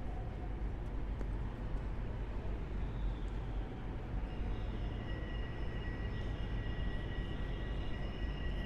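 Low, steady rumble of a vehicle on a city street, joined about halfway through by a steady high-pitched whine of several tones that holds to the end.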